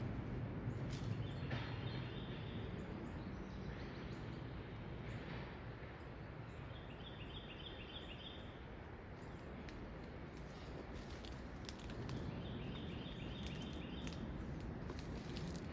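Birds singing, one bird repeating a short, rapid trilled phrase three times at intervals of about six seconds, with scattered single chirps from others, over steady low background noise.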